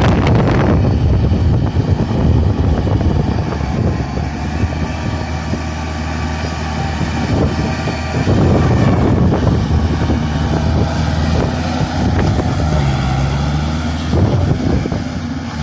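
Kubota four-wheel tractor's diesel engine running, with a louder rush of noise in the first second.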